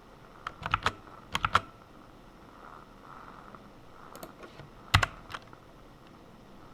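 Computer keyboard keys being typed in short bursts of a few keystrokes with pauses between them; one keystroke near the end of the typing is louder than the rest.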